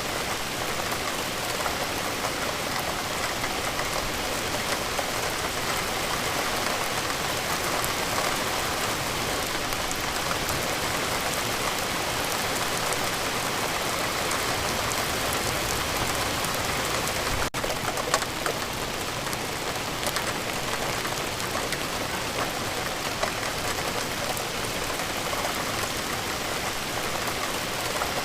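Steady rain falling, a continuous even hiss with scattered individual drops, broken by a split-second gap about 17 seconds in.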